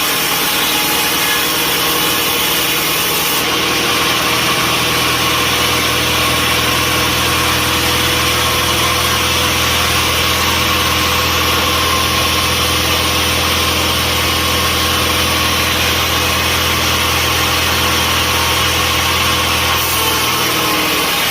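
Sawmill machinery running steadily: a constant mechanical drone with fixed tones. A deep engine-like hum comes in a few seconds in and drops out near the end.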